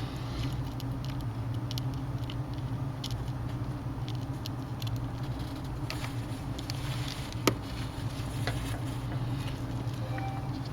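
Small scattered clicks and ticks of a T6 Torx screwdriver and tiny screws working into the tablet's frame corners, with one sharper click about seven and a half seconds in. A steady low hum runs underneath.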